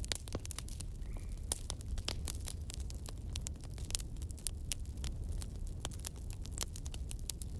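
Wood fire crackling and popping, with many sharp, irregular snaps over a low steady rumble.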